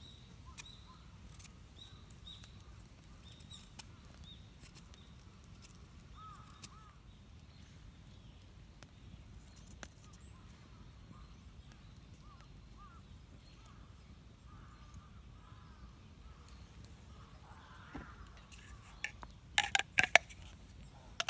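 Wild birds calling faintly with short, scattered chirps. There are occasional sharp clicks, and a cluster of louder clicks comes near the end.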